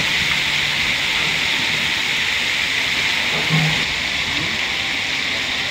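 Daal sizzling steadily in hot oil on a large flat tawa griddle, with a brief low note about three and a half seconds in.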